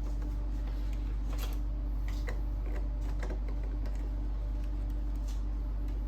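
Light, irregular plastic clicks and taps as a printhead and its ribbon cable are handled and seated in an Epson L6290 inkjet printer's carriage, over a steady low electrical hum.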